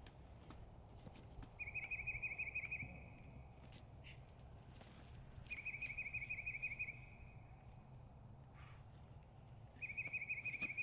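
A songbird singing a short, even trill three times, a few seconds apart, with a few faint high chirps between the trills.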